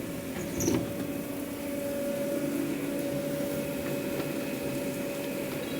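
Steady machinery hum with a constant pitched tone, and a brief knock about a second in.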